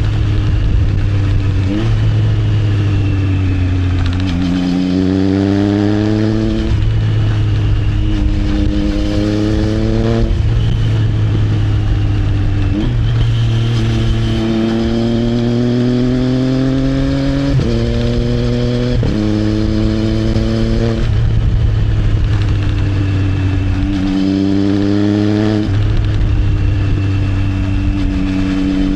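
Triumph Trident 660's three-cylinder engine through an Arrow exhaust, accelerating and easing off through a series of gears. The pitch climbs and then drops suddenly at each quick upshift, several times, with stretches of falling pitch as the throttle closes, over a steady low rumble of wind and road.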